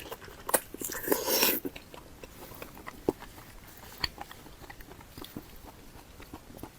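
Close-up eating sounds: a person biting and chewing food, with a louder crunching bite about a second in, then softer chewing and wet mouth clicks.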